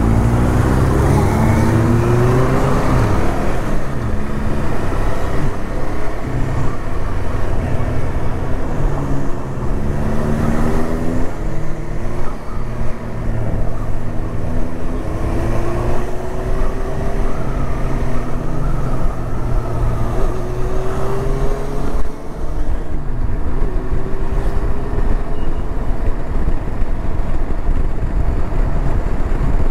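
Motorcycle engine running under way, rising in pitch several times as it accelerates up through the gears, with road and wind noise on the microphone.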